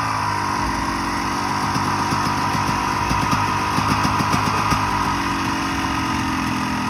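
Motorcycle engine idling, with a few brief revs of the throttle around the middle.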